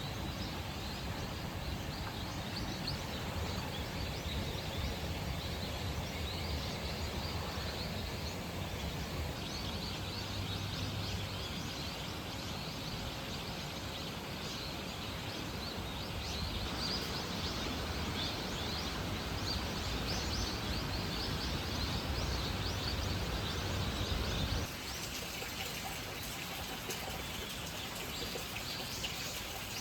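Forest ambience: a steady rushing background with small birds chirping now and then. A low rumble underneath cuts off suddenly near the end.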